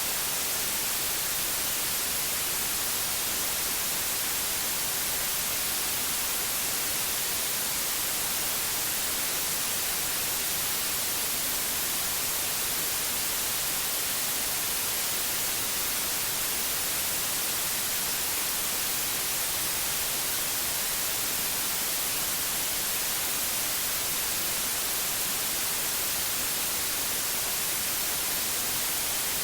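Steady electronic white noise: an even, unbroken hiss, strongest in the treble, with no change in level.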